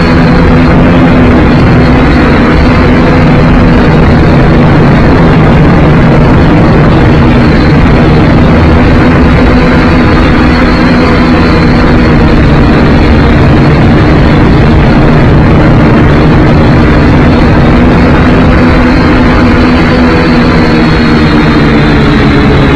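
Syma X5C quadcopter's small brushed motors and propellers buzzing loudly and steadily over a rushing hiss. Heard close up, as from the drone's own onboard camera. The pitch sags slightly near the end as the motors ease off.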